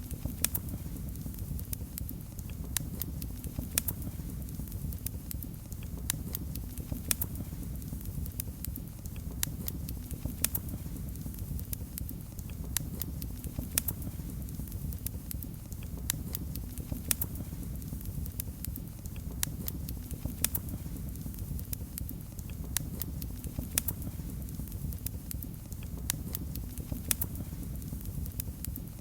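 Fireplace fire crackling: frequent irregular sharp pops and snaps over a low, steady rumble of the flames.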